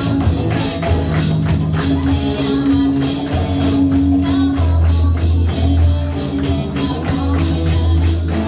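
Rock band music with a drum kit keeping a steady beat over bass and guitar.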